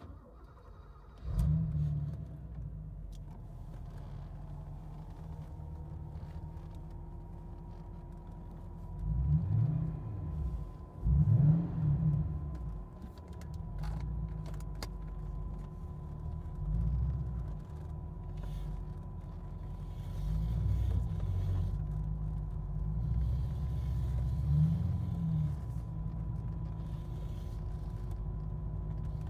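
Porsche 928's V8 engine starting about a second in, then idling with two revs about ten seconds in, and moving off at low speed in the second half, heard from inside the cabin.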